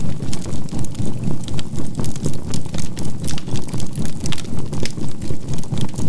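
Crackling fire, with many small sharp pops, over a steady low tone. The tone throbs evenly about three times a second: a synthesized 528 Hz healing tone and binaural beat mixed in for relaxation.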